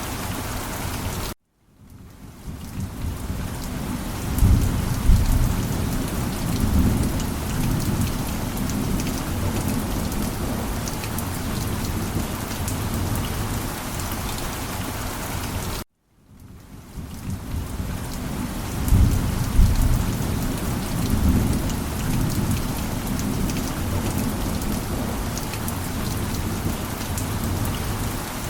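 Heavy rain pouring steadily, with rolls of thunder rumbling low. Twice the sound cuts out abruptly for a moment and fades back in, and a few seconds after each return a louder roll of thunder comes.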